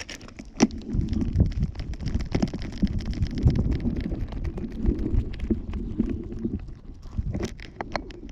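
Rubbing and bumping noise from a camera worn on a Yorkshire terrier as the dog moves, an uneven low rumble with scattered sharp clicks and knocks.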